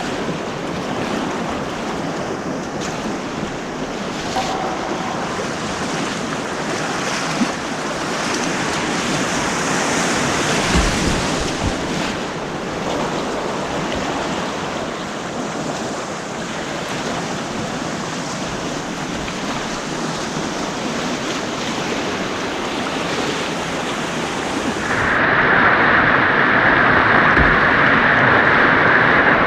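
Rushing white water on an artificial whitewater course, heard from a kayak, with a few sharp knocks along the way. Near the end it turns abruptly louder and duller.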